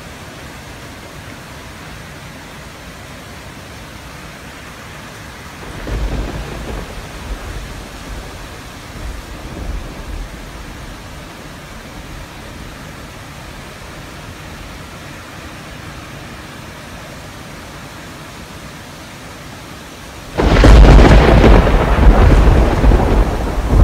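Steady rain falling on tree foliage, with a rumble of thunder about six seconds in and a sudden loud thunderclap near the end.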